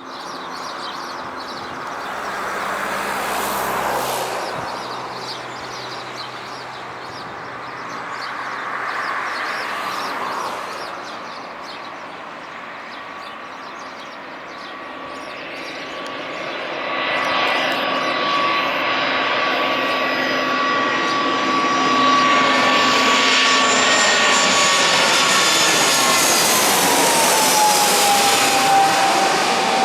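Airbus A320-200 jet on landing approach. Its engine noise builds from about halfway in, with a steady whine that drops in pitch as it passes near the end. Two shorter swells of rushing noise come earlier.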